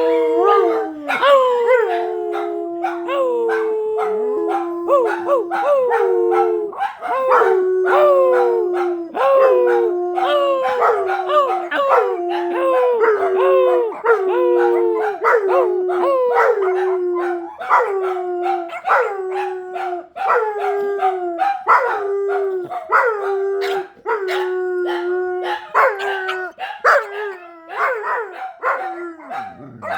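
Dogs howling: a long unbroken run of repeated howls, each sliding down in pitch and then held briefly, about one a second.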